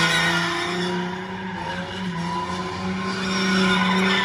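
A car drifting: its engine held at high revs, the pitch steady with small steps, over the noise of tyres skidding.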